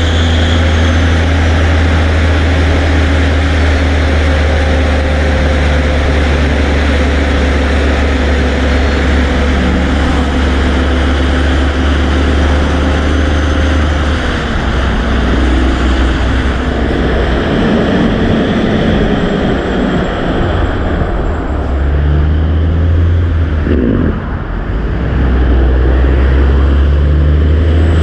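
Heavy trucks running past, a loud continuous diesel engine drone with tyre and road noise. The engine note shifts about halfway through and dips briefly near the end.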